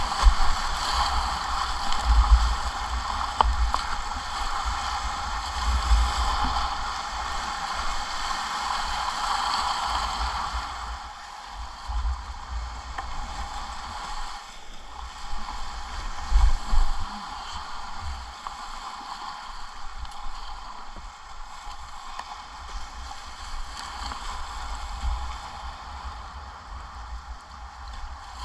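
River whitewater rushing past a kayak in a steady hiss, louder for the first ten seconds or so and then easing off. Irregular low thumps run underneath.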